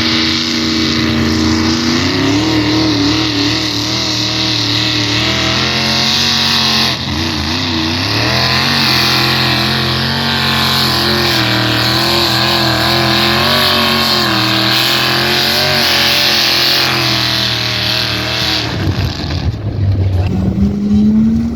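Engine of a pulling truck or tractor run hard at high revs through a pull, its pitch holding high and wavering for about 19 seconds, then falling away near the end as it backs off. Near the end a second engine revs up, its pitch rising.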